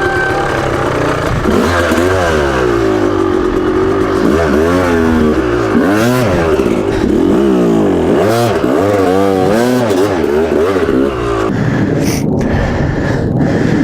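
Dirt bike engine revving up and down over and over as the throttle is worked through a technical trail section, settling to a lower, steadier note near the end.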